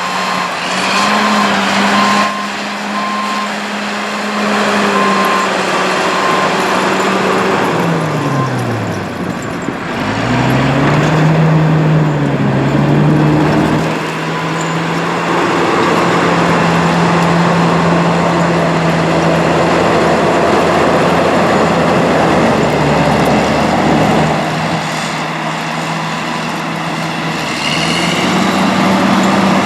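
Heavy vehicle engine running in traffic, its pitch dropping sharply about eight seconds in and climbing again a couple of seconds later, with an intermittent high beeping during the first several seconds.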